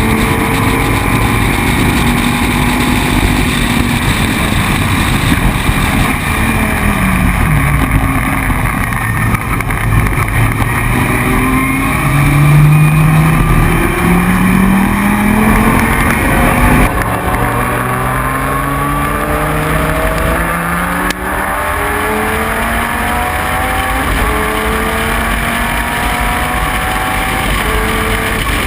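Dodge Viper race car's V10 engine at full racing effort, its pitch climbing and falling back again and again as it accelerates, shifts and lifts.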